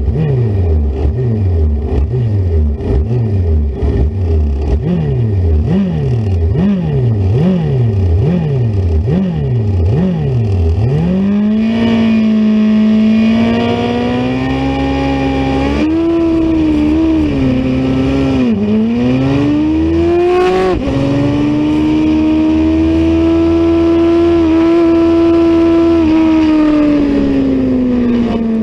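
Middleweight superbike racing motorcycle engine blipped repeatedly, about eight quick rises and falls in pitch, then opened up and held at high revs, the pitch rising and easing with the throttle, with brief dips and a slow fall near the end.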